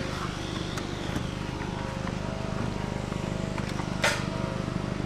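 Vehicle engine running steadily, with a single sharp clunk about four seconds in.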